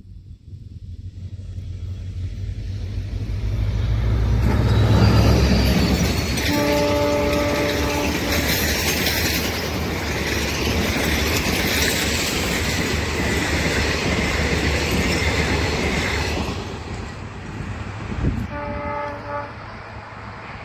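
EMD WDP-4D diesel locomotive's two-stroke V16 engine approaching and passing at speed, loudest about five seconds in, with a horn blast of about a second and a half just after. The passenger coaches then run past in a steady rumble that fades, and the horn sounds once more, shorter and more distant, near the end.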